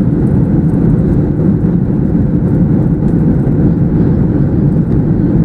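Steady, loud drone of an airliner in flight, engine and airflow noise heard from inside the passenger cabin.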